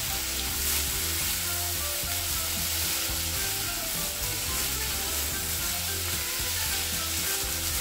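Grated sweet potato sizzling steadily as it fries in ghee in a pan, stirred with a silicone spatula. Soft background music plays underneath.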